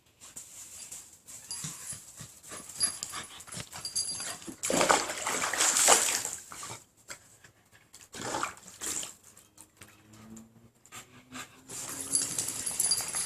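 Keeshond dog whimpering amid irregular water splashing, the loudest splashing about five seconds in, and a low whine near the end.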